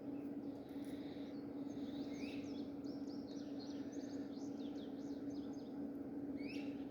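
Wild birds singing in the evening: a rising call repeated about every four seconds and a run of high chirps and trills, over a steady low hum.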